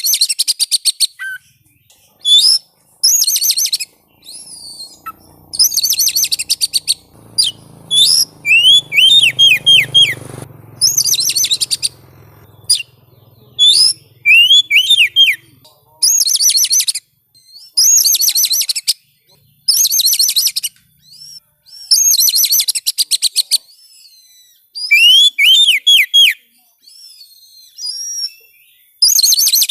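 Oriental magpie-robin (kacer) song used as a lure to set a caged bird singing: loud, rapid phrases of shrill whistles and chattering notes, each about a second long, repeated every couple of seconds, some ending in a run of quick falling whistles.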